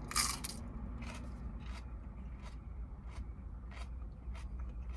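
Biting into a crisp lettuce leaf with a loud crunch, then chewing it, a crisp crunch about every two-thirds of a second.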